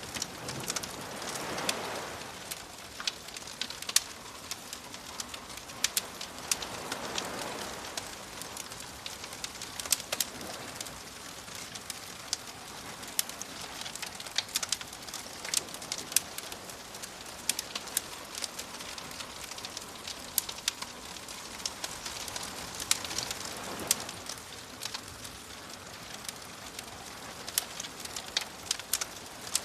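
Campfire crackling with frequent sharp pops, over soft ocean waves washing in, swelling and fading three times.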